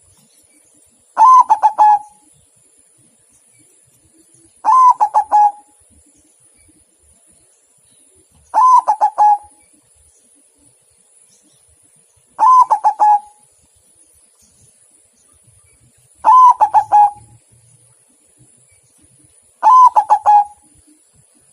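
White perkutut (zebra dove) cooing: the same short, stuttering coo phrase repeated six times, about every three and a half to four seconds.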